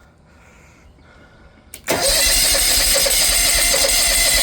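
A click, then the electric starter cranking a Kawasaki FH580V V-twin engine on an Exmark Lazer Z zero-turn mower: a steady, rhythmic churning from about two seconds in, with the engine never catching. It is a no-start that began when the throttle adjustment screw was turned with the engine running.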